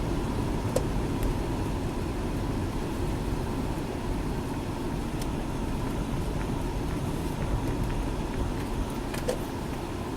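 A car being driven, heard from the car: steady low engine and road rumble with a faint constant hum.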